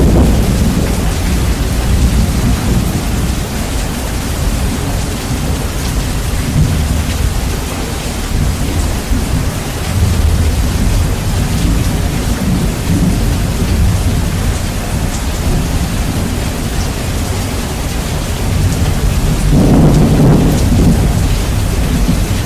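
Steady heavy rain with rumbling thunder, bass-boosted so the low end dominates. A louder roll of thunder swells up about twenty seconds in.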